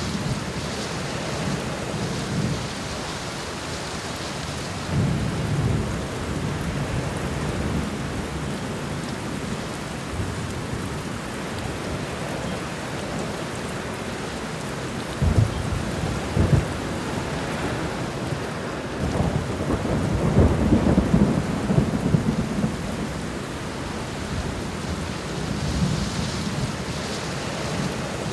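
Thunderstorm: steady heavy rain with rolling thunder. Two sharp thunder cracks come about halfway through, followed by a longer rumble and another rumble near the end.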